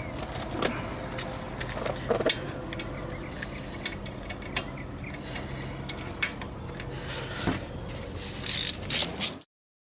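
Irregular clicks and clinks of a ratchet and metal brake parts as a disc-brake caliper is put back together, over a faint steady hum. A quick run of louder clicks comes near the end, then the sound cuts off abruptly.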